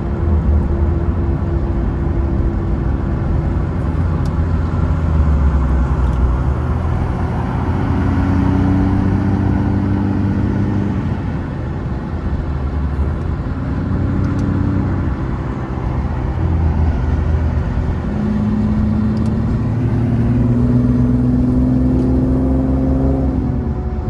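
Infiniti G37's 3.7-litre VQ37 V6 running through a loud aftermarket exhaust while driving. The engine note rises and falls several times as the car accelerates and eases off.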